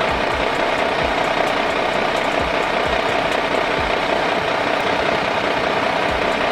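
Small electric motor running steadily with a constant whine and irregular low knocking.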